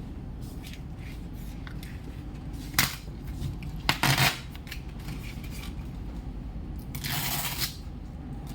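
A few sharp clicks and knocks of small objects being handled, then a brief scraping rustle, over a steady low hum.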